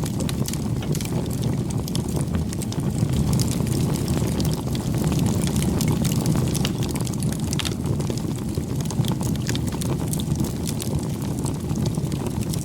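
Campfire burning: a steady low rush of flames with frequent small crackles and pops throughout.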